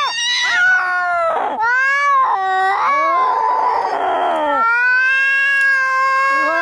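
Cats yowling at each other in a fight: long, drawn-out howls that waver and slide up and down in pitch, with a harsh, noisy snarl in the middle.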